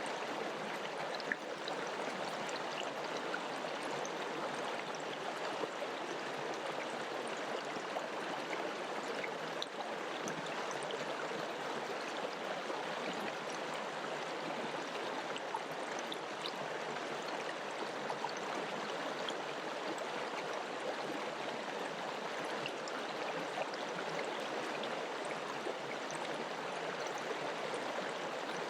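River water flowing steadily: an even rushing sound with faint small splashes and gurgles throughout.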